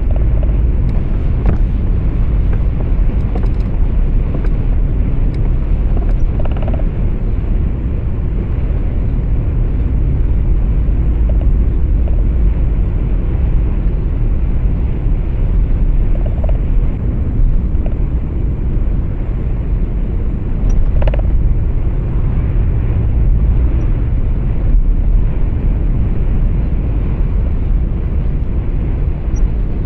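Steady low rumble of road and engine noise inside a moving truck's cab, with a few faint brief clicks over it.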